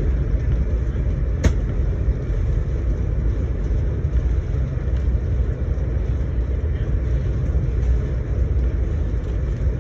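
Steady low rumble of a VIA Rail passenger car running on the track, heard from inside the coach. A single sharp click comes about a second and a half in.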